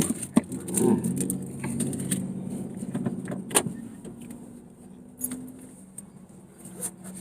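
Light jangling clicks over the low hum of a vehicle engine, which fades away after about five seconds.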